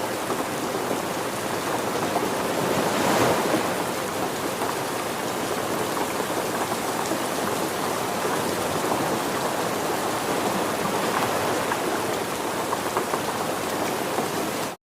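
Steady rushing water ambience, like rain or surf, swelling a little about three seconds in and cutting off abruptly near the end.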